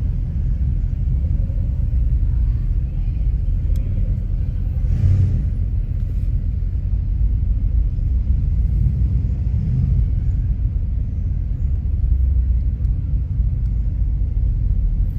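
Steady low rumble of a V8 muscle car's engine and exhaust driving slowly in traffic, most likely the Dodge Challenger Scat Pack's 6.4-litre HEMI V8.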